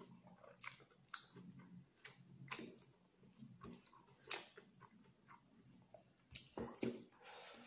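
Close-up, wet mouth sounds of chewing rice and chicken liver curry: irregular smacks and clicks of lips and tongue, with soft squelches of fingers mixing the rice into the curry. The smacks come more densely near the end.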